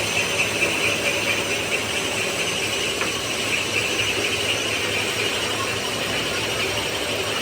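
Steady workshop machinery noise with a continuous high-pitched squeal running over it.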